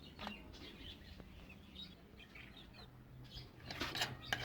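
Bird wings flapping in a few quick beats near the end, over faint chirping from small birds.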